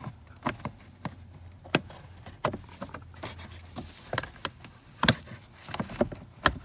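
Plastic car interior trim panel being handled and lined up into place, giving irregular sharp clicks and knocks, a few of them louder.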